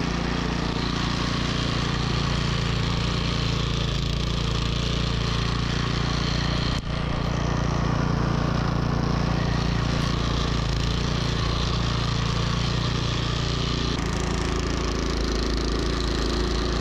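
Troy-Bilt snowblower engine running steadily under load while blowing deep snow, with a brief click and dropout about seven seconds in.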